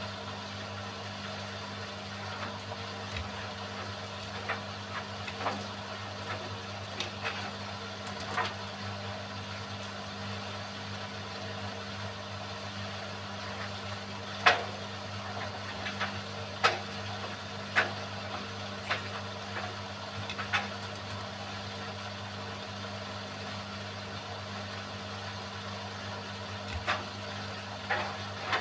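Beko washing machine running with a steady motor hum, with a pencil case in the drum making scattered sharp clicks and knocks, the loudest about halfway through.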